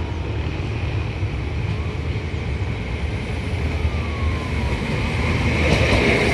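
Diesel passenger train running with a steady low engine rumble, growing louder near the end as it approaches, when a high hiss from the wheels on the rails comes in.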